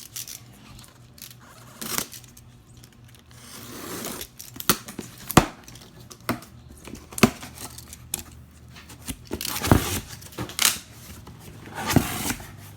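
Cardboard subwoofer shipping box and its packing being opened and handled: tearing and crinkling with scattered sharp knocks and scrapes.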